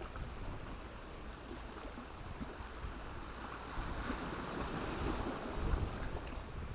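Sea waves washing onto a stony beach, the surf swelling louder about four to six seconds in, over a low rumble.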